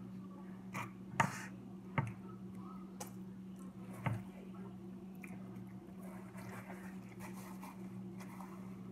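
Close-up wet mouth sounds of someone chewing a mouthful of soft macaroni and cheese, with three short sharp clicks about one, two and four seconds in, over a steady low hum.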